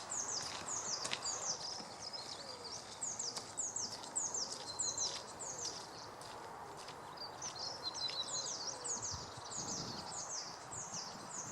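A small bird calling over and over: a long series of short, high notes that slide downward, about two or three a second, over steady outdoor background noise.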